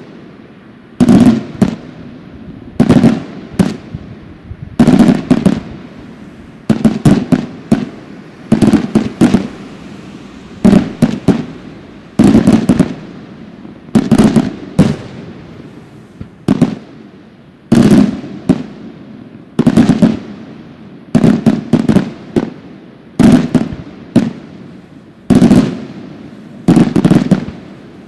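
Aerial firework shells bursting in a steady sequence, about one every two seconds. Each burst is a quick cluster of sharp bangs followed by a rumbling tail that dies away.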